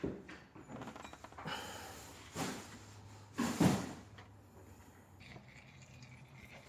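Several short scraping and rustling handling noises, the loudest about three and a half seconds in, as a hand-tightened oil filter is worked loose under a car.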